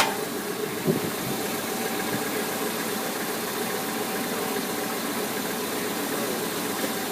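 Moving truck's engine idling steadily, heard from close to the motor. A sharp click comes right at the start and a smaller one about a second in.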